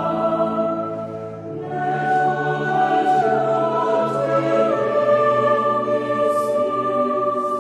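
Choir singing slowly, in long held chords that step to new notes every second or so.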